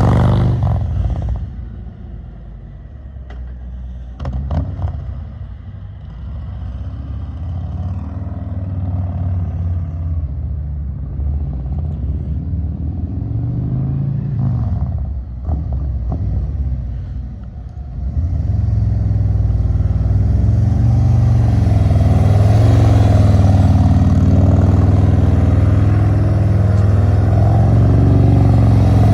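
Motorcycle engine running while being ridden, its revs rising and falling. It turns louder and steadier about two-thirds of the way through.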